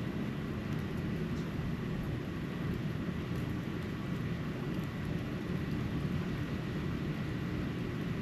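Steady, low rumbling outdoor ambience during snowfall, with a faint steady high tone and a few faint scattered ticks.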